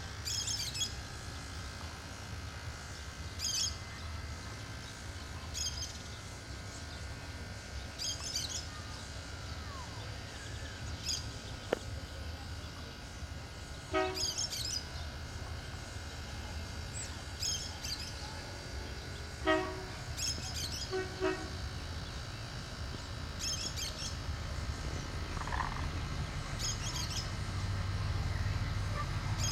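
A small bird chirping in short high bursts every two to three seconds, over a steady low rumble that grows louder near the end. Three short pitched toots sound in the middle stretch.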